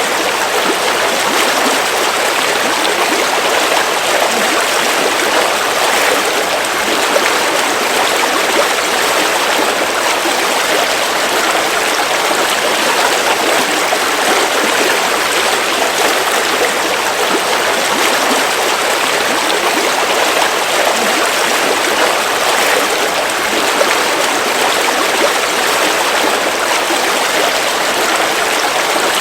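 River water flowing over rocks in a steady, unbroken rush, with no changes in level.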